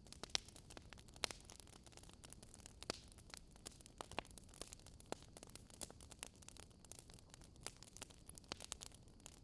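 Wood fire crackling: irregular sharp pops and snaps, several a second, over a faint low hiss, with the loudest pop about half a second in.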